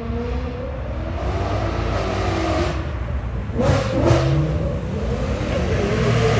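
BMW E92 M3's V8 engine revving hard through its exhaust, the pitch climbing and falling. It drops back about three and a half seconds in, then climbs again.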